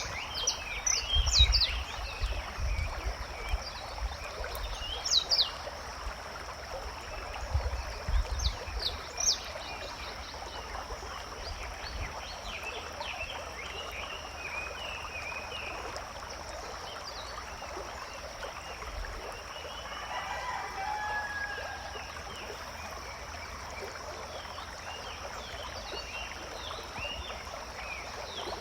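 Forest ambience: many small birds chirping over a steady hiss and a constant high-pitched hum, with the chirps thickest in the first ten seconds and again near the end. A lower call sounds about twenty seconds in, and low rumbles come and go in the first several seconds.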